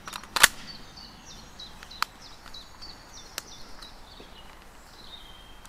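Woodland birdsong: a bird repeats short falling chirps, then a falling trill near the end. A few sharp clicks and knocks come from movement through the undergrowth, the loudest about half a second in.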